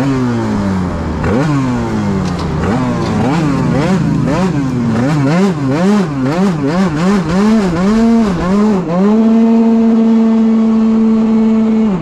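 Tuned 94cc two-stroke scooter engine (Big Evolution kit on a Yamaha Aerox) revving. The note first drops, then rises and falls in quick throttle blips about twice a second. For the last few seconds it is held at a steady high pitch.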